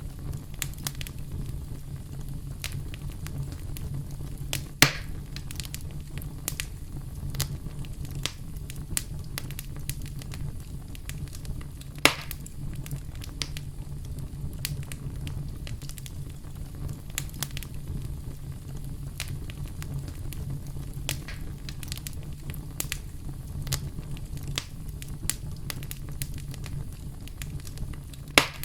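Wood campfire crackling: frequent small snaps and clicks over a steady low rumble of the flames, with three louder pops, about five seconds in, about twelve seconds in and near the end.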